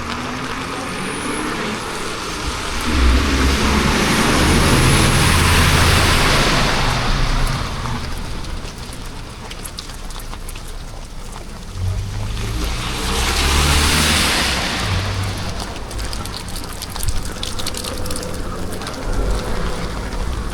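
Motor vehicles passing on a rain-wet street, tyres hissing through the water and engines running. Two pass loudly, one a few seconds in and another about twelve seconds in.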